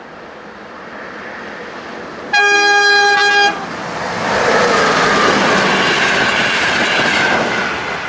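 Electric locomotive's horn sounds one blast of about a second, then the passenger train rushes past at speed, wheels and rolling noise building loud and easing off near the end.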